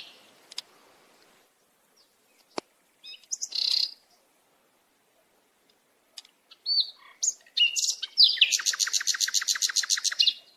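Songbirds calling: a few scattered short chirps and whistles, then near the end a rapid trill of evenly repeated notes, about nine a second, lasting about two seconds.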